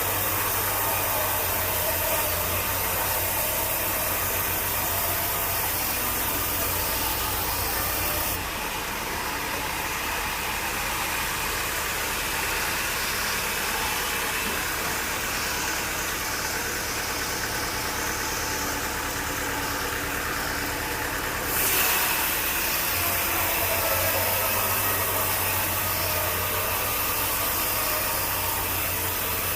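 Engine-driven machinery running steadily. The sound changes abruptly about 8 seconds in and again near 22 seconds.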